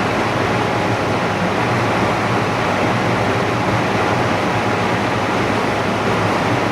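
Steady, even rushing hiss with a faint steady tone running through it.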